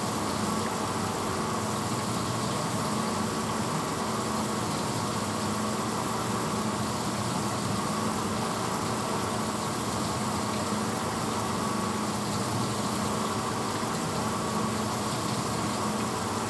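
1986 Hotpoint Potwasher dishwasher running mid-cycle: a steady motor hum with water rushing inside the tub.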